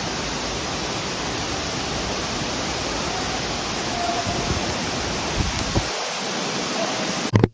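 Waterfall rushing, a loud steady noise of falling water that cuts off suddenly near the end.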